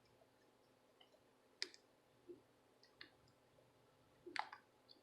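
A few faint, sharp clicks and taps of small metal tools working on a circuit board while a charging port is desoldered, the loudest about a second and a half in and near the end.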